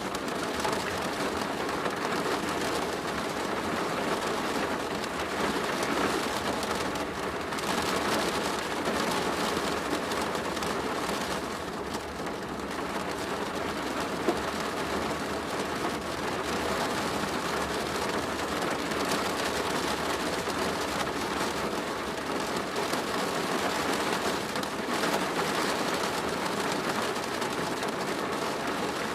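Steady rain drumming on a plastic roof, a dense even patter.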